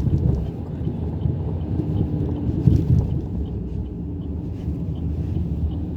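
Chevrolet Cruze 1.6 16-valve engine and road noise heard from inside the cabin while driving, a steady low rumble.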